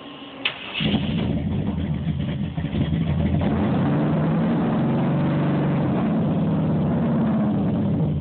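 ZZ502 big-block Chevy V8 with Powerjection III throttle-body fuel injection: a click about half a second in, then the engine catches and runs, its speed picking up about two and a half seconds in and then holding steady.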